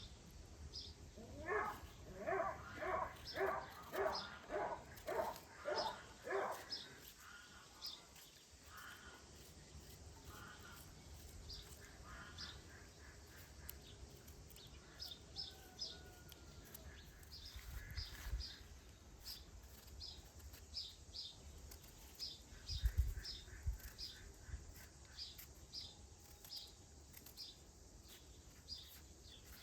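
Birds calling outdoors: a run of about ten loud calls, roughly two a second, in the first several seconds, then fainter call series later on. Small birds chirp over the top the whole time.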